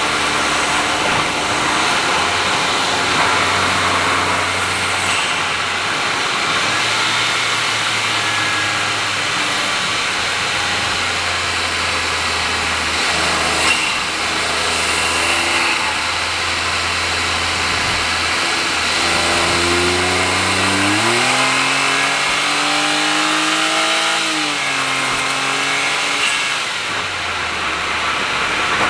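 Honda S660's turbocharged 660 cc three-cylinder engine running through an HKS aftermarket exhaust while cruising, over steady tyre and road noise. About twenty seconds in the engine note rises as it accelerates, holds for a few seconds, then drops back down.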